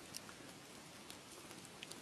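Wood fire crackling: a faint steady hiss with a few small, scattered pops.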